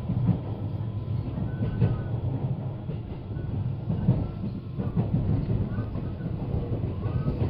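JR West 223 series electric train running, heard from inside the passenger car: a steady low rumble of wheels on rail, with a few short clacks as the wheels cross track joints.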